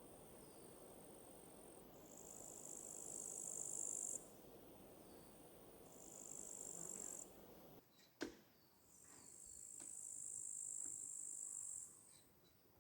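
Insects trilling: three high, steady buzzing trills of a few seconds each, the last the longest. A soft low hiss lies under the first two-thirds, and there is a single sharp click about eight seconds in.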